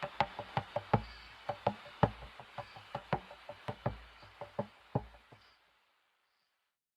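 Wood fire crackling: irregular sharp pops over a faint hiss, dying away about five and a half seconds in.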